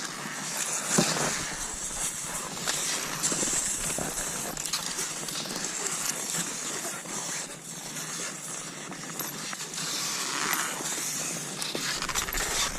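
Cross-country skis sliding over snow in repeated swishes, with a few sharp crunches and clicks.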